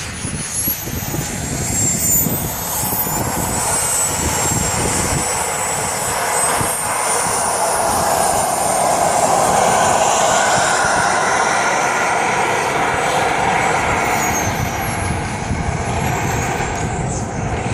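Radio-controlled model jet in flight: a thin, high-pitched whine that slowly rises and falls in pitch over a steady rushing noise, loudest near the middle.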